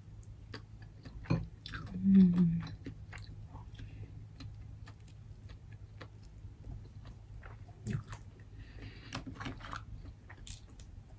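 Close-miked chewing of steamed mussel meat: soft wet mouth sounds and many small clicks, with a short hummed "mm" about two seconds in.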